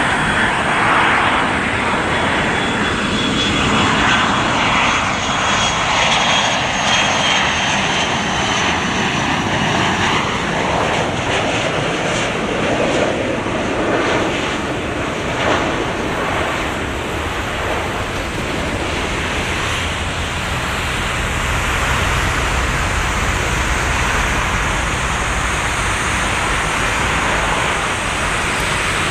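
Boeing 737-200 jet airliner, its Pratt & Whitney JT8D low-bypass turbofans roaring as it passes. A high whine falls slowly in pitch over the first ten seconds, then a steady noisy rumble carries on.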